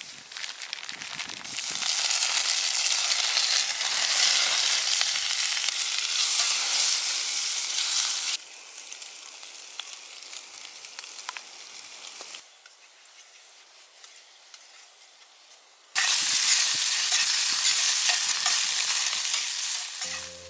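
Yakisoba frying in a pan, a loud sizzle with the sound of stirring. The sizzle drops off abruptly twice, about eight and twelve seconds in, then comes back loud about sixteen seconds in.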